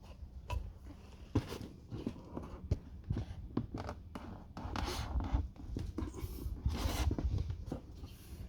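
Irregular light knocks and scraping of hand tools being worked against the car's sheet-metal rear quarter panel, with a couple of longer rubbing scrapes.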